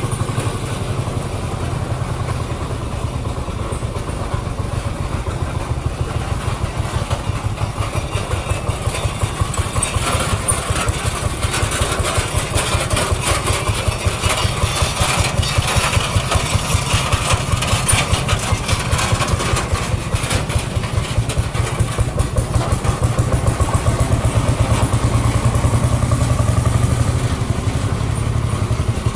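An old internal-combustion engine running with a steady, even firing beat. It grows louder and busier for a stretch in the middle, then settles back.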